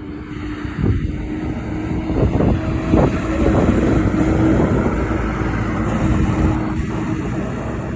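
Semi truck driving past, its engine hum and road noise swelling to a peak a few seconds in and then easing off.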